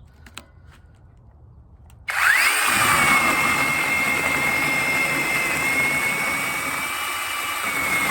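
Battery-powered brushless mini chainsaw starting about two seconds in, quickly spinning up to a steady high whine with the chain rattling as it cuts through a branch.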